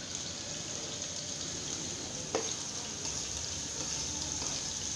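Chopped onion sizzling as it is scraped into hot oil in a frying pan: a steady hiss, with one sharp knock of the metal slotted spoon about two and a half seconds in.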